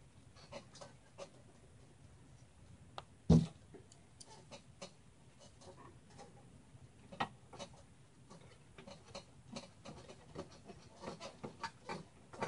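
Scattered light clicks and taps of small computer hardware being handled inside a mini-ITX case, with a sharper knock about three seconds in and another about seven seconds in.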